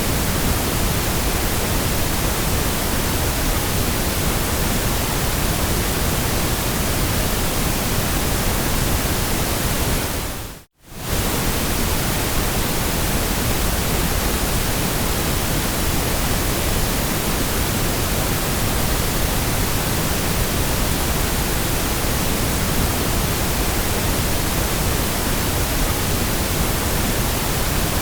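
Steady white noise, an even hiss with no tones or rhythm. It fades out briefly to near silence about ten and a half seconds in, then comes straight back.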